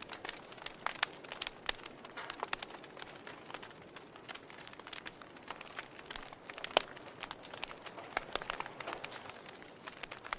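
Wood campfire crackling: irregular sharp pops and snaps over a steady hiss of burning, with one louder pop about two-thirds of the way through.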